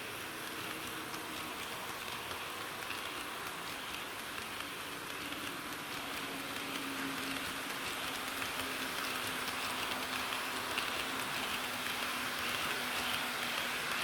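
HO-gauge model diesel railcar running on track: a steady rushing of metal wheels on rails with a faint motor hum, growing slowly louder as the train comes closer.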